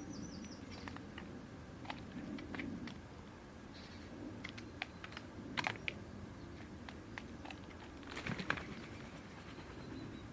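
Irregular light taps and clicks of birds pecking and moving about on a garden bird feeder, with a brief run of high chirps at the start and a louder flurry of taps about eight seconds in.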